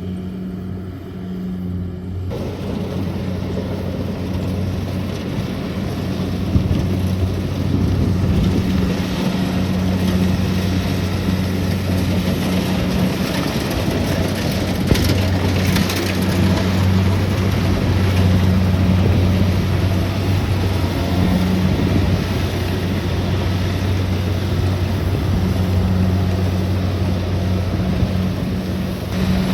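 Kubota DC-70 Plus combine harvester running steadily with a low, even engine hum. A louder, broader mechanical rush joins about two seconds in and stays.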